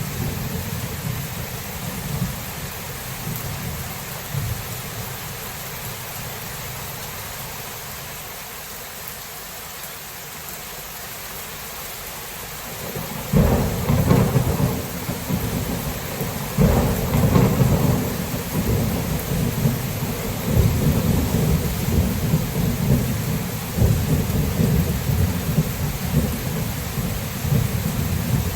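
Thunderstorm: steady rain with rolling thunder. The rumble dies down in the first half, then a loud crack and roll of thunder breaks about halfway through, followed by a second peal and continued rumbling.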